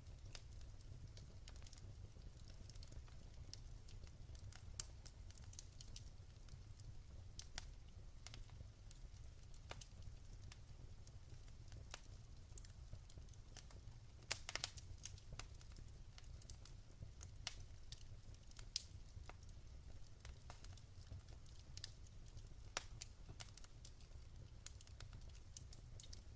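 Wood fire crackling in a fireplace: irregular sharp pops and snaps over a low steady rumble, with a quick cluster of pops about halfway through.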